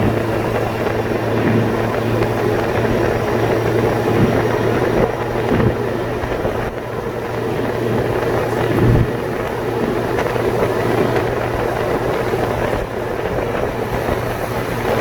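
Car driving on a wet road in rain: a steady drone of engine and tyres, with a few dull thumps.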